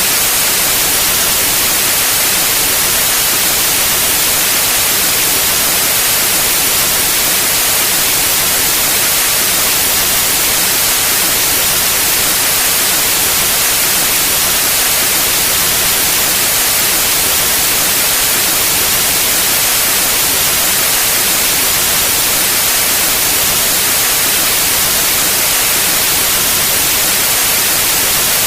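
Steady, loud synthetic white noise: an even hiss, brightest in the highs, that never changes.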